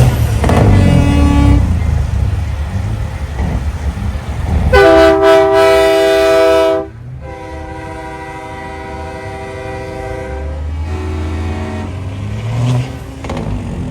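Semi trucks' air horns sounding: a loud horn about five seconds in that cuts off sharply two seconds later, then a quieter horn held for several seconds and a shorter one after it. Big rig diesel engines rumble under it, loudest at the start and near the end.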